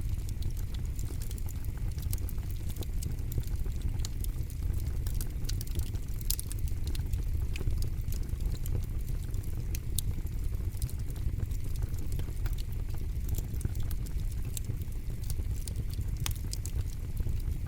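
Campfire burning and crackling: frequent sharp, irregular pops and snaps over a steady low rumble of the flames.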